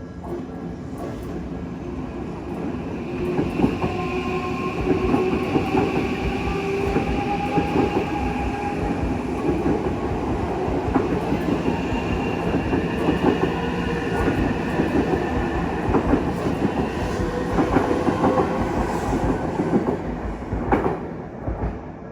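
Odakyu Line electric train passing close by, its wheels clacking over the rail joints under a few steady whining tones. It builds about two seconds in and fades away near the end.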